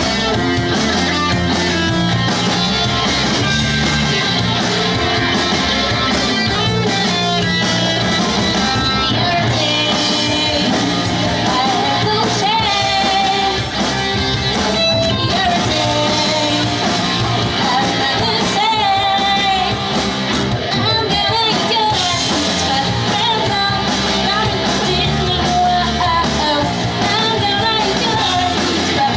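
Live pop-punk band playing a song: a sung lead vocal over guitars, bass and drums, loud and continuous.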